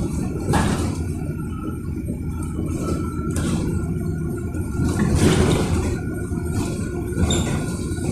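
Inside an electric bus on the move: a steady low rumble of tyres and road, broken by repeated rattles and knocks, with a faint thin whine that comes and goes.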